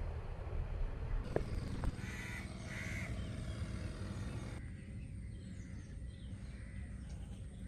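A bird calling twice, two short calls about two and three seconds in, over a steady low rumble.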